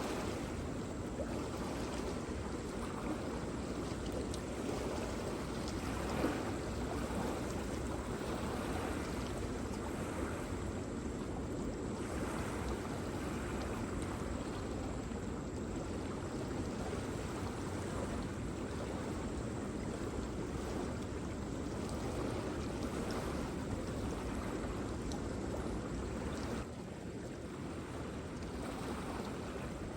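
Waterfall water rushing in a steady, even roar, dropping slightly in level near the end.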